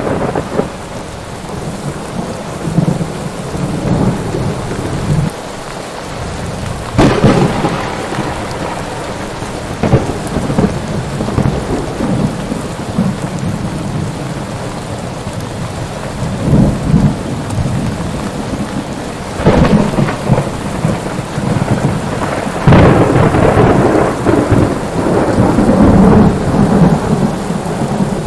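Steady heavy rain with rolling thunder. Several loud rumbles and cracks break over it, the longest and loudest stretch coming in the last few seconds.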